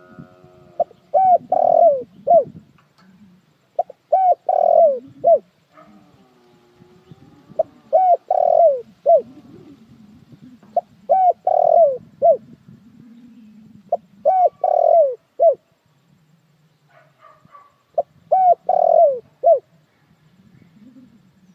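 Spotted dove cooing: six phrases of about four coos each, the second coo the longest, repeated roughly every three and a half seconds. A faint low rumble runs underneath.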